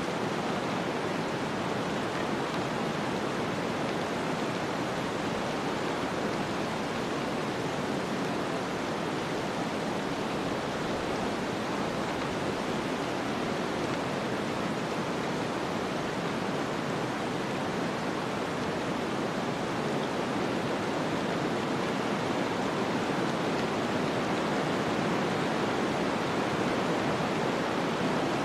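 Steady snowstorm wind, an even rushing hiss with no distinct gusts or separate sounds.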